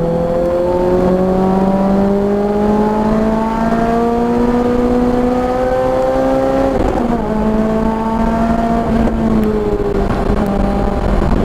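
Car engine heard from on board under hard acceleration on a race track, its pitch climbing steadily for about seven seconds; then the driver lifts off and the revs fall away gradually, with a further drop near the end.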